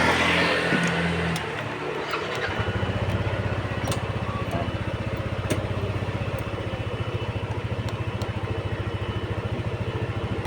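Motorcycle engine running with an even, rapid low putter that sets in about two and a half seconds in and holds steady. A short burst of noise comes at the start.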